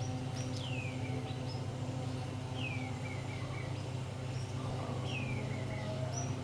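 Birdsong: a call that sweeps down in pitch and ends in a few short chirps, repeated about every two seconds, with brief high notes near the end, over a steady low hum.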